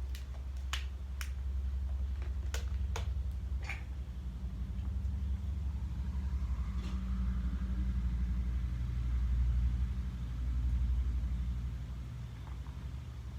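A steady low rumble with several sharp clicks in the first four seconds, from a Coke bottle being opened and handled for a drink.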